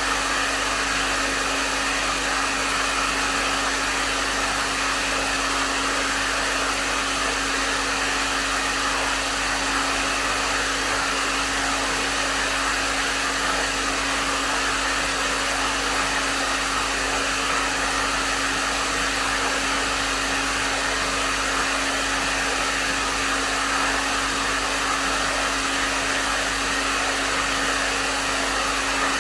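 Hair dryer blowing steadily at medium setting: an even rush of air with a steady motor hum underneath, unchanging throughout.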